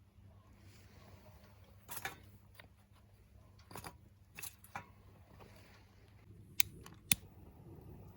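Wood fire in a secondary-combustion wood stove, giving scattered sharp crackles and pops, with the two loudest snaps close together near the end.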